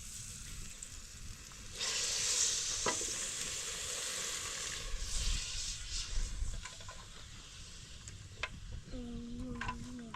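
Food sizzling in hot oil, starting suddenly about two seconds in and slowly fading, with a few crackles. Near the end comes a short pitched call.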